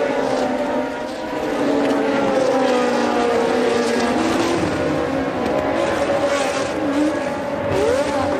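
Several 1982 Formula One cars' engines running together at high revs, their pitches rising and falling with gear changes as the cars pass, with one sharp rising rev near the end.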